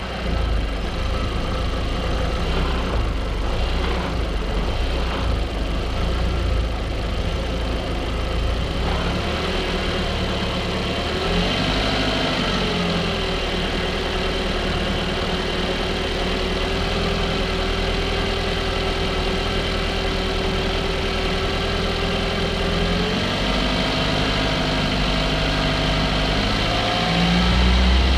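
Audi TT's 1.8-litre turbocharged four-cylinder engine idling steadily just after a cold restart, with a short blip of the throttle about 12 seconds in and the revs stepping up twice near the end. It is being run to check a boost problem after a new diverter valve and N75 valve were fitted.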